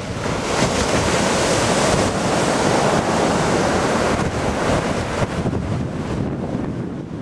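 Ocean waves breaking and washing up the beach, with wind buffeting the microphone. The surge of noise builds about half a second in and eases off near the end.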